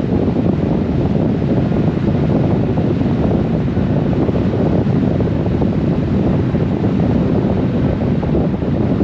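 Steady rushing wind on the microphone of a Honda Gold Wing motorcycle riding at speed, a loud low roar of air with no breaks.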